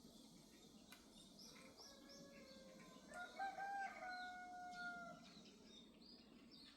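A faint rooster crowing once, one long call of about two seconds starting about three seconds in, while small birds chirp repeatedly throughout.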